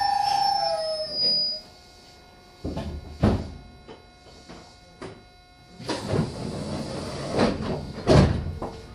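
Meitetsu commuter train coming to a halt, its whine falling slightly in pitch and fading out in the first second and a half. A series of loud knocks and clatter follows, about three seconds in and again from about six seconds, as the car's sliding doors work at the station stop.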